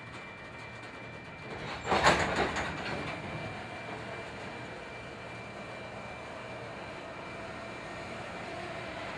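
Freight train on a switch job: steady rumble of a diesel locomotive and rolling cars, with a sudden loud burst of noise about two seconds in that dies away over about a second.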